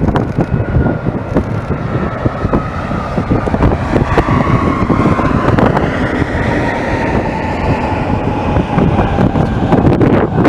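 Jet airliner passing: a steady engine rumble with a whine that slides slowly down in pitch as it goes by, over wind buffeting the microphone.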